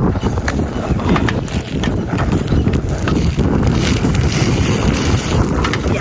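Wind buffeting the microphone: a loud, uneven low rumble with scattered clicks and rattles.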